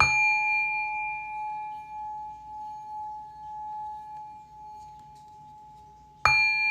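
Heart chakra singing bowl struck and left to ring, one steady tone with fainter higher overtones, slowly fading with a gently wavering loudness. It is struck again about six seconds in.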